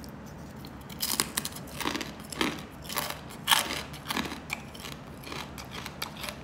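Crisp deep-fried pork back-fat chicharon (pork crackling) being bitten and chewed: a string of sharp, irregular crunches, several a second, starting about a second in.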